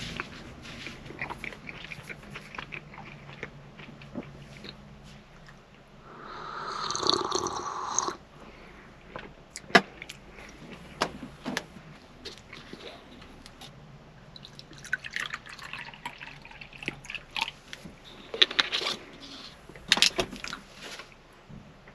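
Liquid poured for about two seconds, starting about six seconds in, among scattered small clicks and knocks.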